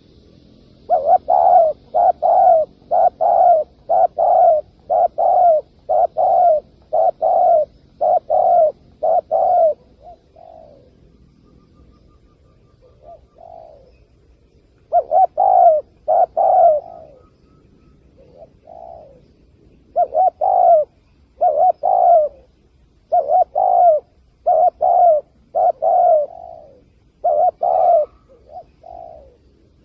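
Spotted dove cooing: runs of short coos, about two a second, with a few seconds' pause around the middle.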